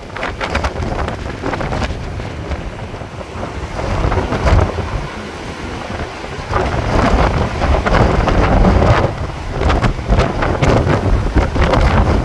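Hurricane wind buffeting the microphone in gusts, loudest through the second half, with surf from the beach beneath.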